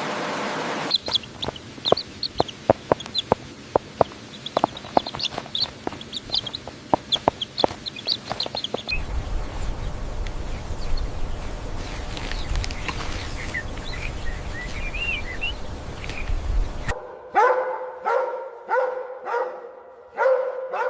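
Chickens clucking and chirping over a run of sharp clicks, then a steady low rumble. Near the end a dog barks repeatedly.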